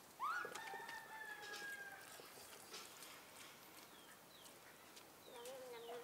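An animal call: a long held call that rises quickly, then sags slightly over about two seconds. A second, lower and shorter wavering call comes near the end.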